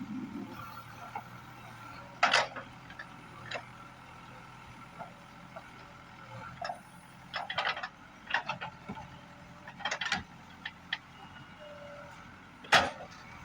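Backhoe loader's diesel engine running steadily, with a series of sharp clanks and knocks from the machine working, the loudest near the end.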